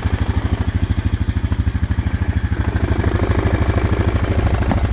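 Honda ATV's single-cylinder engine idling steadily with an even, rapid pulse, running without trouble on an O2 sensor delete.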